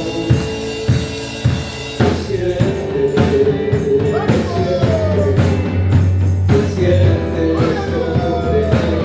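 Worship band music: drum kit with steady beats, a strong bass line and sustained melodic instrument lines in an instrumental passage between sung lines of a Christian worship song.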